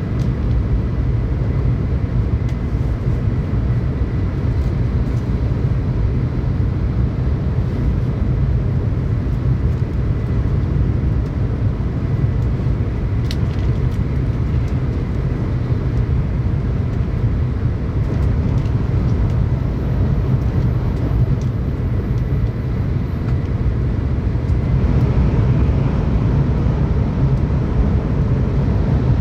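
Tokaido Shinkansen train running at speed, heard from inside the passenger car: a steady low rumble of wheels and running gear, with a single sharp click about halfway and the noise swelling slightly near the end.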